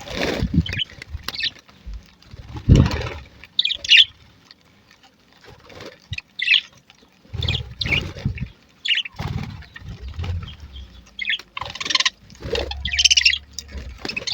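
A colony of budgerigars chirping and chattering, many short high chirps overlapping, with several dull thumps and rustles in among them.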